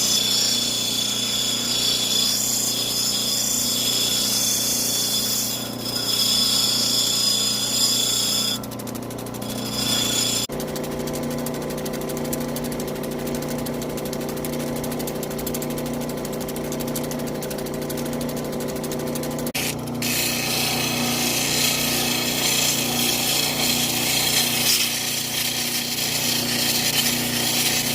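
Electric lapidary machine running steadily while turquoise is cut or ground against it, with a high hissing grind that comes and goes over the motor's hum. The hum changes pitch abruptly twice, about ten and twenty seconds in.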